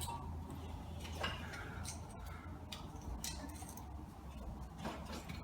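Light wooden knocks and clicks as kindling splints and firewood are laid into a stove's fireclay-brick firebox, about five separate taps, over a steady low hum.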